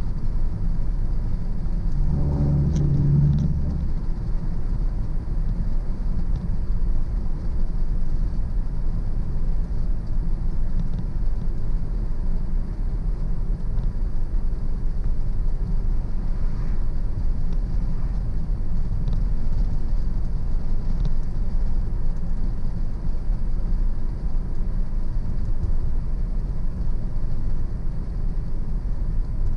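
Car driving on a country road: a steady low rumble of engine and tyres, with a brief louder low hum about two seconds in.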